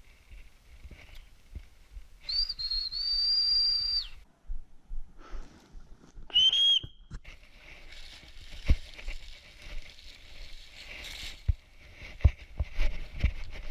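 Mountain bike rattling over a rough trail, with a high, steady squeal of its disc brakes lasting nearly two seconds about two seconds in and a shorter squeal about six seconds in.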